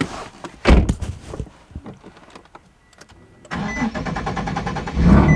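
A heavy thump and a few clicks, then about three and a half seconds in the single-turbo Nissan 370Z Nismo's V6 starts and runs steadily, getting louder near the end.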